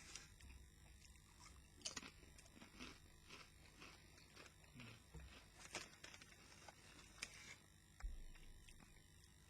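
Faint crunching and chewing of riffled potato crisps in the mouth, a scatter of irregular soft crunches and crackles.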